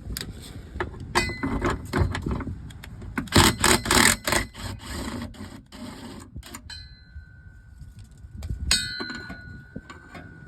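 Metal hand tools clinking and knocking against metal: a socket wrench working at the drive shaft bolts. Two sharp clangs ring on, one about two-thirds of the way through and one near the end.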